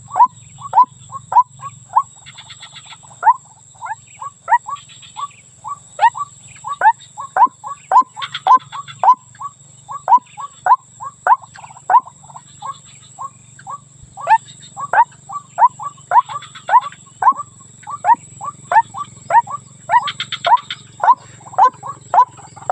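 White-breasted waterhen (ruak-ruak) calling: a long, rhythmic series of short, sharp notes, about two a second, with bouts of faster, higher chatter in between. This is the female's call to a male, used as a lure call.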